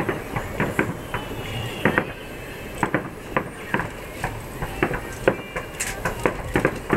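Aerial firework shells bursting in a rapid, irregular series of sharp bangs, two or three a second, with one louder report about five seconds in.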